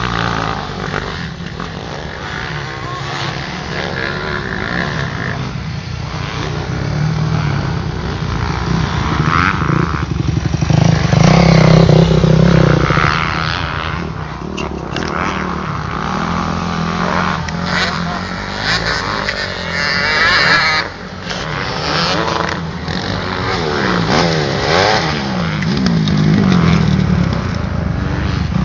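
Motocross bike engines revving up and down as the bikes ride the track, loudest about eleven to thirteen seconds in.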